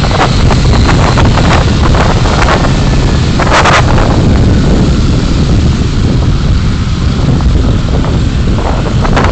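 A moving car's road and engine noise, a loud steady low rumble, with scattered light clicks and a brief hiss about three and a half seconds in.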